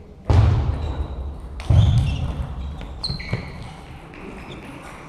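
Two loud thuds about a second and a half apart, each ringing on in a large hall, followed by a few short high squeaks.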